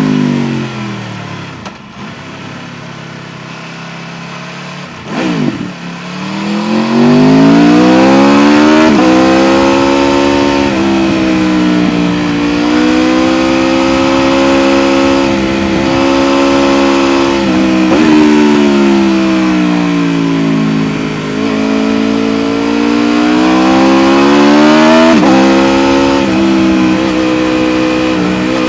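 Aprilia RSV4 1100 Factory's 1099 cc V4 engine, heard from on board. It winds down off the throttle, goes quieter with a quick blip about five seconds in, then pulls hard through several upshifts. It eases off once more around twenty seconds in and accelerates again to a steady high pitch near the end.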